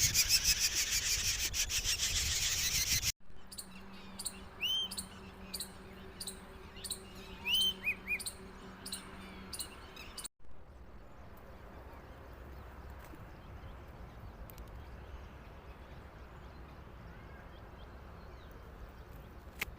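A loud, rapid scratchy rustling for about three seconds, then cuts to birds chirping with short, high, arched calls, a few at a time. In the last half the chirps stop, leaving faint outdoor background with an occasional tick.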